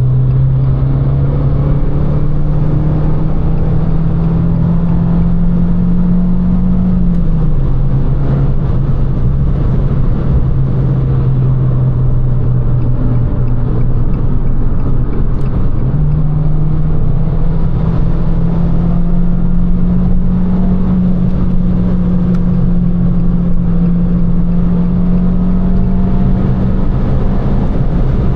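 Abarth 595 Competizione's turbocharged 1.4 T-Jet four-cylinder engine droning through its Record Monza exhaust under steady driving, over a constant rush of road noise. The revs climb slowly, drop with a gear change about seven seconds in, jump back up about sixteen seconds in, then climb slowly again.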